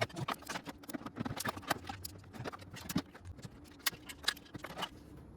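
Click-type torque wrench ratcheting in quick, irregular ticks as exhaust bolts are run down and torqued to 18 foot-pounds, with a few sharper clicks among them. The clicking stops about five seconds in.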